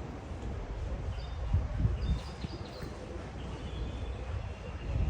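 Birds calling: a few short, high chirps over a steady low rumble.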